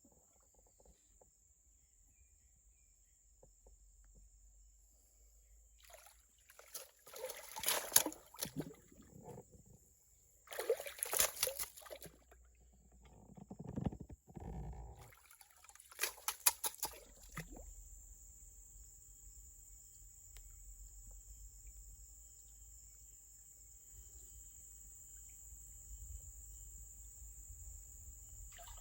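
Water sloshing and splashing in several short bursts, with a lower swirling sound in between, over a steady high-pitched drone that grows louder in the second half.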